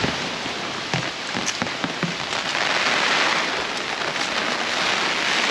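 Heavy rain falling: a steady hiss with a few sharper drop taps.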